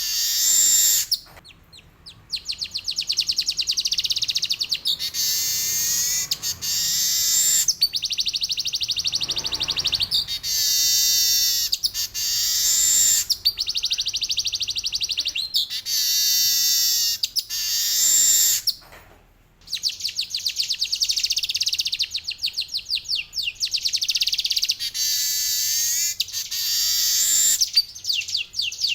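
Male manyar (weaver bird) singing in long, rapid, high trills and rattling runs of repeated notes, phrase after phrase, with short breaks about two seconds in and again about two-thirds of the way through.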